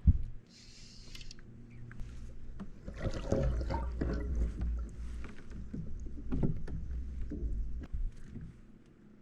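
Knocks and handling sounds aboard a fishing kayak on the water, over a low rumble.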